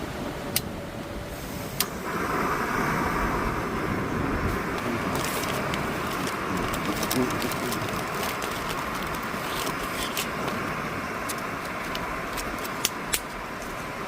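Portable gas camping stove being lit: two sharp igniter clicks, then the burner catches about two seconds in and hisses steadily, with scattered light ticks over wind and rain noise.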